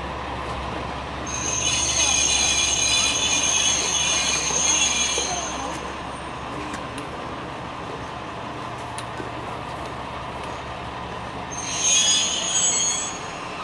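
JR West KiHa 120 diesel railcar squealing shrilly as it brakes into the station: a long squeal of about four seconds, then a shorter one near the end.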